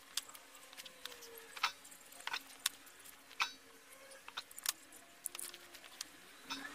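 About a dozen irregular sharp clicks and light metallic taps from small tools and parts being handled while a protection board is soldered onto a lithium battery pack, over a faint steady hum.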